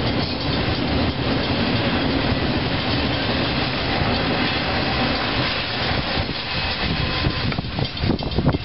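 Intermodal freight train's flatcars carrying highway trailers rolling past on the rails: a steady rumble with a clickety-clack of wheels over rail joints. Near the end the sound turns uneven and gusty as the last cars go by.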